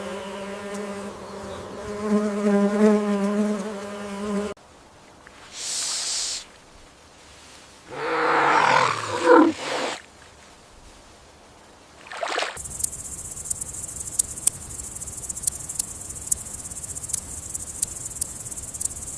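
A string of separate animal sound clips: a steady buzz for about four and a half seconds, then a short hiss and a louder rough, roar-like call, then a steady high-pitched trill with sharp clicks from about twelve seconds on.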